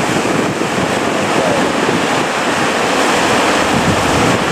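Heavy surf breaking and wind buffeting the microphone, a loud, steady rush of wave noise.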